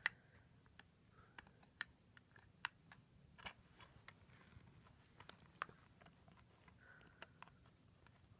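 Faint, scattered clicks and taps of plastic LEGO Technic pieces being handled, a dozen or so irregular clicks over a quiet room background.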